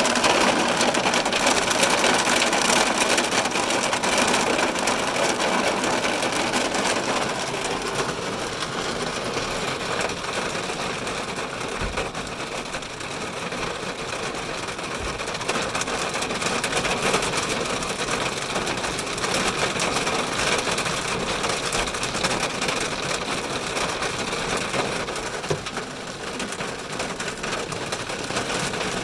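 Heavy rain drumming on a car's roof and windows, heard from inside the car as a dense, steady patter that eases slightly after the first few seconds.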